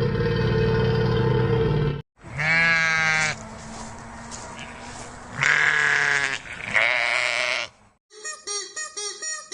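Livestock bleating: three loud, wavering calls. Before them a steady low call cuts off about two seconds in, and near the end a fast run of short calls follows.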